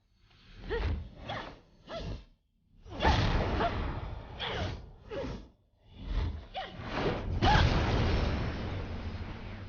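A series of whooshing sound effects: several short swishes, then a longer rushing whoosh starting about three-quarters of the way through.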